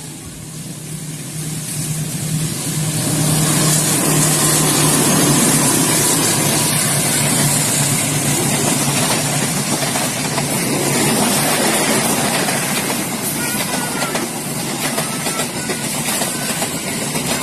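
A train passing close by: a steady diesel engine drone under loud rushing wheel-and-rail noise. It swells over the first few seconds, then holds.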